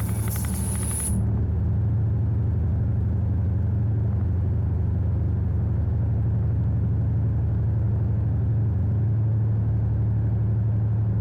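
EMD two-stroke diesel locomotive engine running steadily, heard from inside the cab as a low, even drone. A brighter hissing layer cuts off suddenly about a second in.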